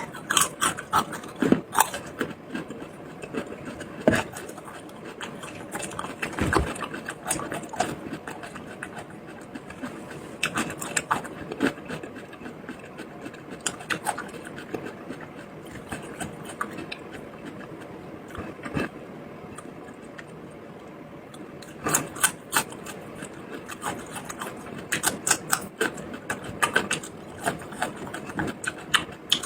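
Close-miked eating sounds: chewing and mouth clicks in irregular clusters of short, sharp crackles.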